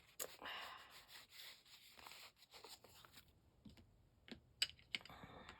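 Faint scratchy rubbing of ink being worked onto the edges of paper, strongest in the first couple of seconds, then a few light taps and paper sounds.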